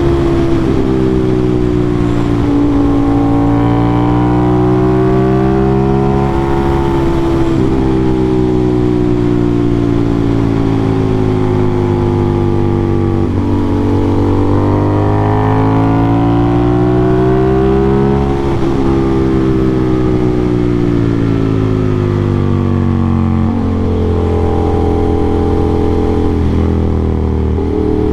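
Aprilia RS660 parallel-twin engine through an SC-Project CRT exhaust, revving up and down through the gears on a twisty road. The pitch climbs and falls in long sweeps, broken by sudden gear changes every few seconds.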